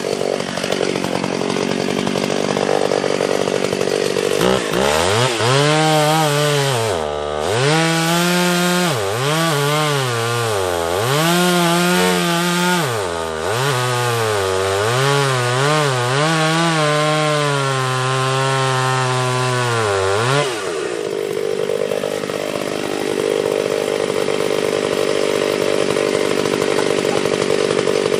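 Two-stroke chainsaw cutting into a tree trunk: from about four seconds in to about twenty seconds in, the engine's pitch sags and recovers again and again as the chain bogs in the cut. Before and after that, a steadier high engine sound.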